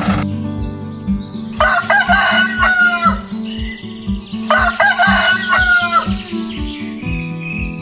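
Rooster crowing twice, each crow about a second and a half long, over background music with a steady beat.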